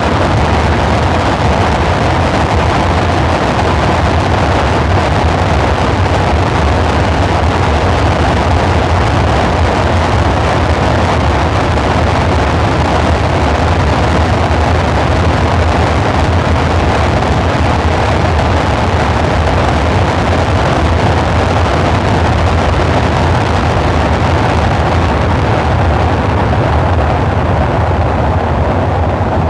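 Dark ambient synthesizer drone: a loud, steady wash of noise over a low hum, with a brighter band of tone in the middle, unchanging and without any beat.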